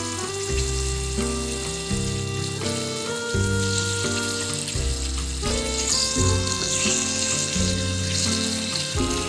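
A fish fillet sizzling steadily as it fries in hot oil in a miniature wok, under background music of held notes that change every second or so.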